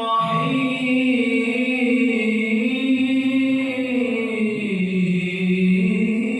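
A man's high, loud voice chanting Quran recitation (tilawah) in an ornamented melody: one long held phrase with slow turns of pitch that steps down about four and a half seconds in.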